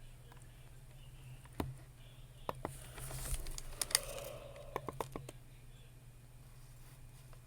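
Computer keyboard keys clicking in a few scattered presses and a quick burst of taps, with a brief rustle in the middle.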